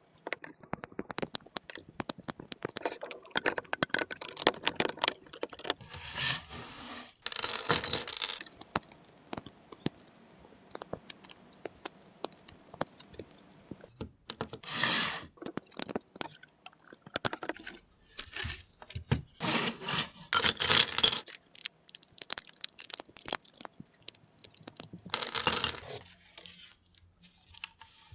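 LEGO plastic pieces being handled and snapped together, with dense irregular clicking. Several longer rustling scrapes come as loose pieces are stirred or slid about.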